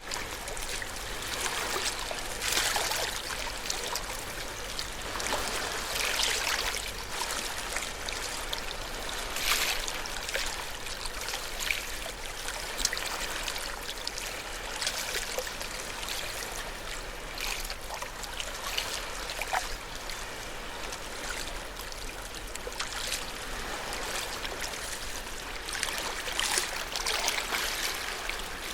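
Ocean waves washing onto a shore: a continuous hiss of moving water that swells louder every few seconds as waves break and runs back.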